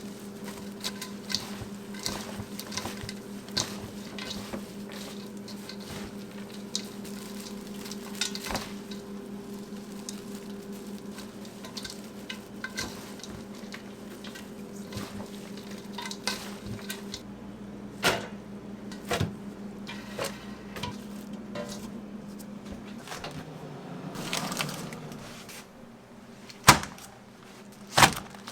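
Restaurant kitchen work: frequent light clinks and taps of utensils and dishes over a steady machine hum, which stops about three-quarters of the way through. A rustle follows, then a few sharp knocks near the end.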